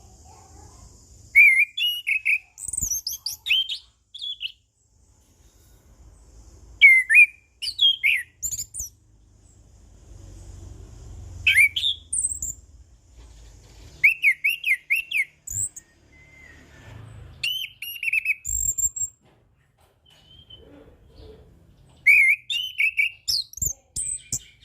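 Chestnut-capped thrush (anis kembang) singing in repeated short phrases of clear whistled notes and higher twittering, with pauses of a second or two between phrases.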